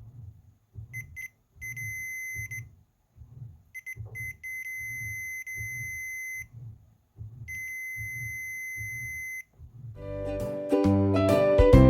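Induction stove's electronic buzzer beeping: a pair of short beeps, then a long steady beep, another short pair and two more long beeps, all on one high tone. A soft low pulse repeats about twice a second underneath. Music comes in near the end.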